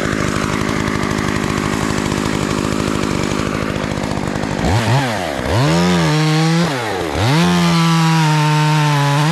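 Two-stroke chainsaw idling, then revved three times: a quick blip, then two rev-ups held high before it drops back to idle. At idle the chain keeps spinning, which the operator puts down to worn clutch springs.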